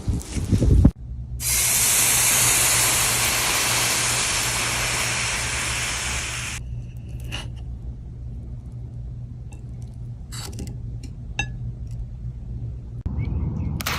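A loud, steady hiss of spraying over a low hum; the hiss cuts off suddenly about six and a half seconds in, leaving the hum and a few faint clicks.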